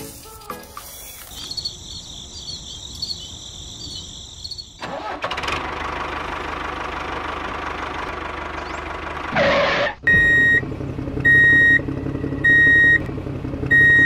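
Vehicle engine sound starting and running. From about ten seconds in it settles into a steady engine hum, with a reversing-alarm style beep sounding about once every second and a bit.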